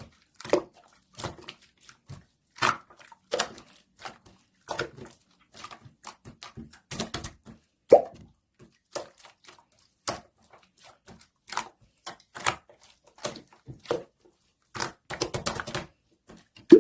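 Avocado slime being squished and poked by hand, giving irregular sticky pops and clicks about one or two a second, with a quick run of them near the end.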